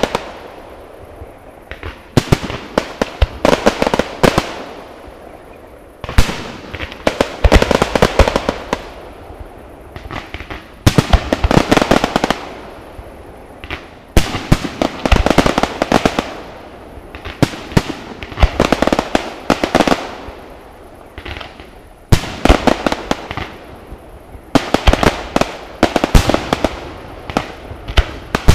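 Aerial fireworks bursting overhead: clusters of sharp bangs and rapid crackling reports come every few seconds, each cluster lasting a second or two.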